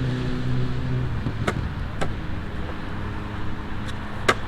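Longboard rolling on pavement with a steady low hum from its wheels, which fades after about a second. Several sharp clacks of the board follow, the loudest near the end.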